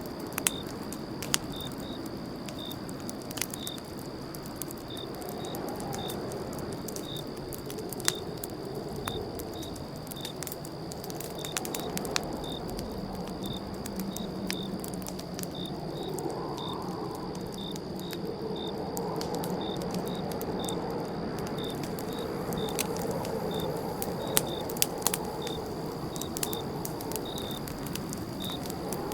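Campfire crackling with irregular sharp pops over a low steady rush of the flames, while a cricket chirps steadily about twice a second.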